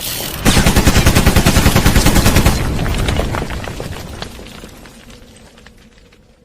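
A rapid rattle of sharp cracks, about ten a second, for roughly two seconds, then dying away slowly over the next few seconds.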